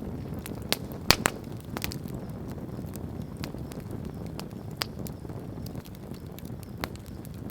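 Wood campfire crackling, with irregular sharp pops and snaps over a low steady rumble; a loud pair of pops comes about a second in.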